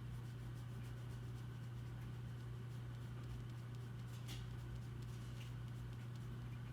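Faint scratching strokes of a drawing tool on paper, with one sharper tick about four seconds in, over a steady low electrical hum.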